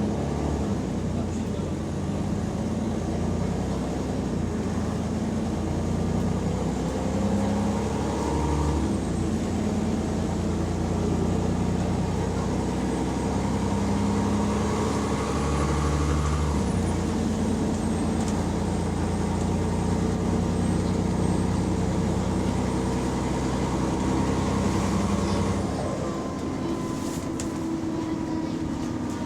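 Bus diesel engine running under load from inside the bus, changing pitch at gear changes about a third and about halfway in, then easing off near the end. The bus has an exhaust leak.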